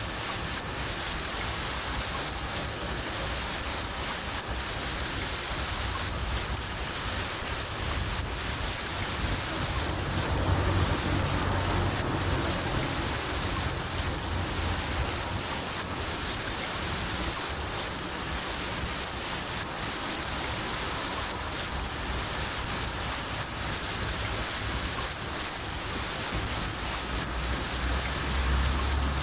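A cricket chirping steadily, about two to three chirps a second, over the hiss of steady rain. Low thunder rumbles come in about ten seconds in and again near the end.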